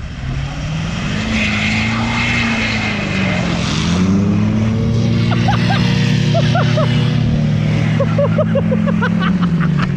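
Pickup truck engine revving hard under load while towing a truck stuck in snow: the pitch climbs about a second in, sags briefly, then is held high before dropping near the end. Faint short chirps sound over it in the second half.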